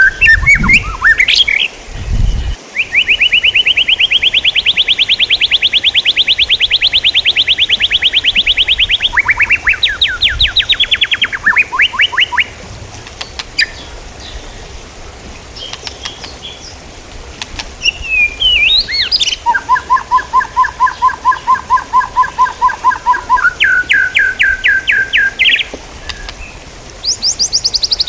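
A songbird singing loud, fast trills: a long even trill, then shorter trills of falling notes, and after a pause a lower trill on two alternating pitches followed by a higher one. It is recorded birdsong of the kind played as tutor song for cage songbirds.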